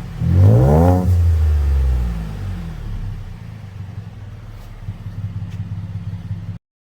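A 2016 Ford F-150's 2.7-litre EcoBoost twin-turbo V6, exhausting through a Flowmaster FlowFx muffler with the resonator deleted, is revved once and drops back over a couple of seconds to a steady, pulsing idle. The sound cuts off abruptly near the end.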